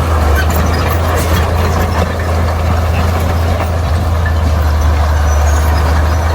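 Bulldozer's heavy diesel engine running steadily, with a deep, unbroken hum.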